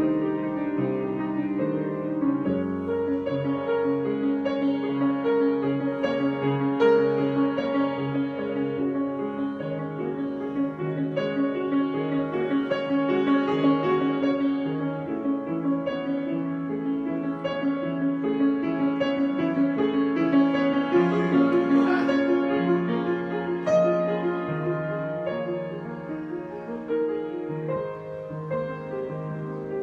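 Piano improvisation: held chords in the middle register under a slowly moving melody, with notes changing every second or so.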